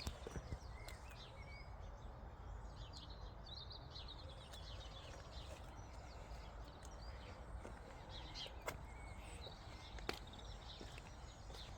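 Small birds chirping and twittering over steady outdoor background noise, with a few sharp clicks now and then.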